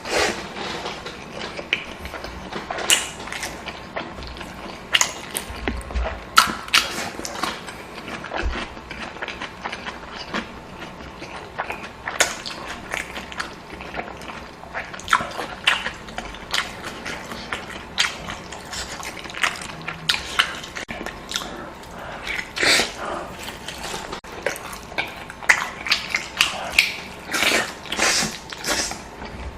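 Close-up eating sounds: a person chewing and smacking mouthfuls of noodles and chicken, with irregular wet clicks and crunches several times a second.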